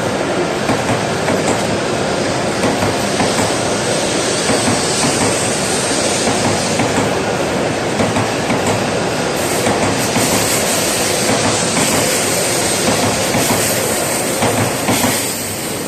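E7 series shinkansen train moving along the platform as it departs, a steady, loud noise of wheels on rail that eases a little near the end.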